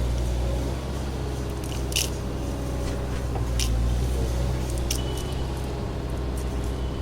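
A small motor running with a steady low hum, with a few light clicks and taps about two, three and a half, and five seconds in.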